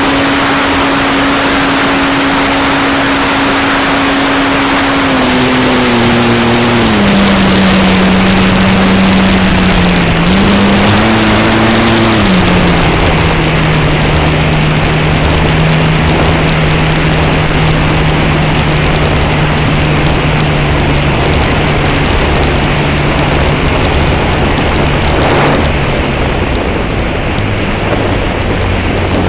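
Electric motor and propeller of an E-flite Cherokee 1.3m RC plane, heard from its onboard camera as a steady hum under heavy wind rush. The hum's pitch steps down about a quarter of the way in, rises briefly, settles lower, and drops again near the end.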